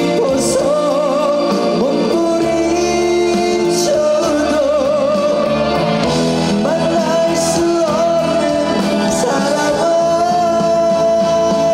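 A singer performing live over band accompaniment, the voice wavering with heavy vibrato and settling into a long held note near the end.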